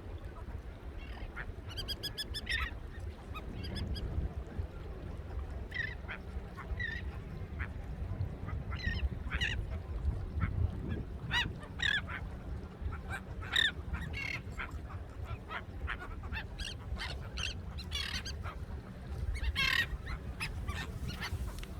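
A flock of birds calling, with many short, harsh calls overlapping at irregular intervals, a quick chattering run about two seconds in and a burst of calls near the end, over a steady low rumble.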